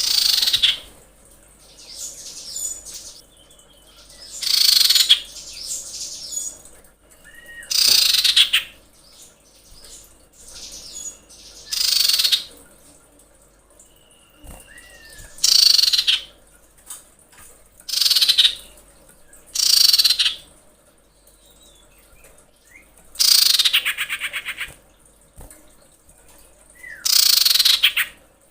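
Female common iora giving a series of harsh, rasping calls, one every two to four seconds, with short thin whistles between them. These are the calls of a hen in breeding condition calling for a male.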